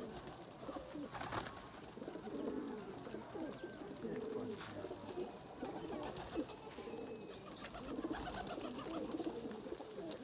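Domestic pigeons cooing, many low coos overlapping without a break, with a couple of short knocks.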